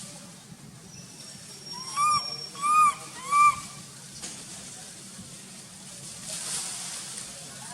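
Baby macaque crying: three short calls in quick succession about two seconds in, each rising and falling in pitch, the cry of a hungry infant wanting milk. A steady low hiss runs underneath.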